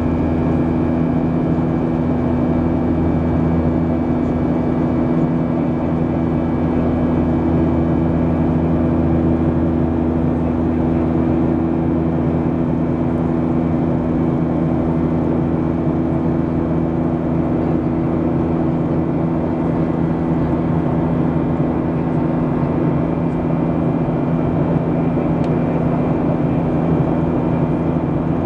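Steady in-flight cabin drone of a Boeing 737-700 with CFM56-7B engines: constant engine and airflow noise with a low, even hum that does not change.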